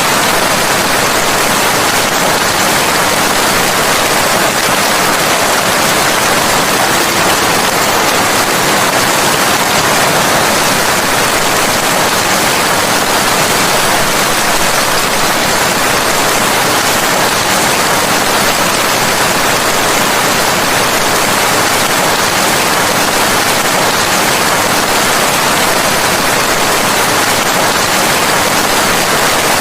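Steady heavy rain, an even dense hiss with no individual drops or changes standing out.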